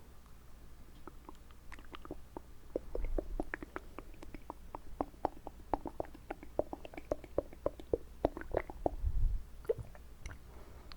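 Wet mouth sounds made with water held in the mouth: a fast run of small wet clicks, several a second, starting about two seconds in and thinning out near the end.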